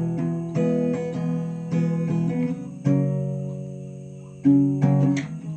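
Acoustic guitar strumming chords without singing, the strums about a second apart and several left to ring and fade, as the song's closing instrumental part.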